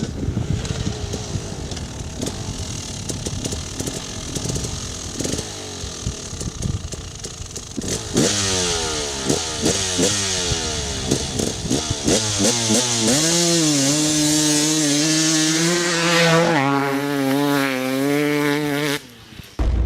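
KTM 300 EXC two-stroke enduro motorcycle engine. It runs rough and low with scattered knocks at first, then revs, its pitch climbing and falling over and over, before holding a high, wavering pitch. It cuts off abruptly near the end.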